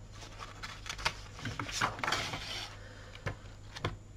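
Large sheets of coloured paper being lifted and leafed through by hand: paper rustling with several sharp flicks and taps.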